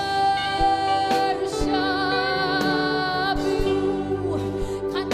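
Slow live worship music: held, wavering sung notes over sustained chords, with a few soft drum thuds.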